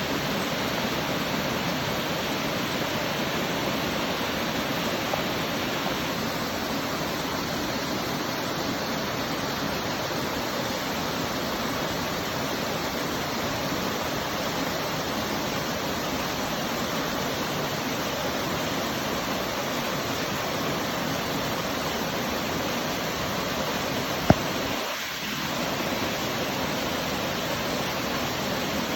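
Waterfall: a steady, even rush of falling water. A single sharp click sounds near the end.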